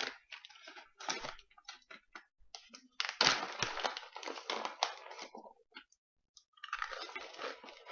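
A plastic snack pouch crinkling and rustling as it is handled and opened, in two stretches of dense crackling with a short pause between.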